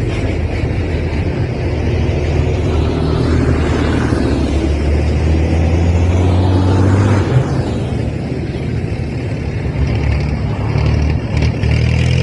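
Tractor engines running steadily as tractors drive along the road, the engine note shifting about halfway through and again near the end.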